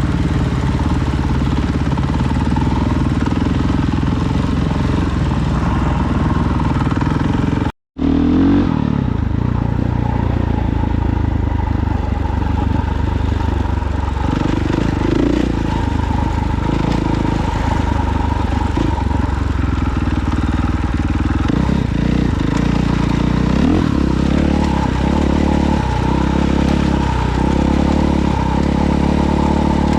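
Dirt bike engine running under way on a trail, its pitch rising and falling with the throttle, and the changes coming more often in the last third. The sound cuts out completely for a moment about eight seconds in.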